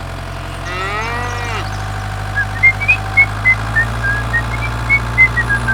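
A steady low engine hum, with a long wavering call rising and falling in pitch about a second in, then a run of short high chirps, about three or four a second, from about two seconds in.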